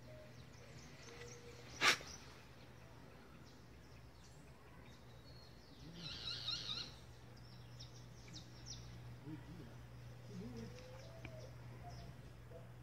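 Quiet background with birds chirping, including a short rapid trill about six seconds in, and a single sharp click about two seconds in.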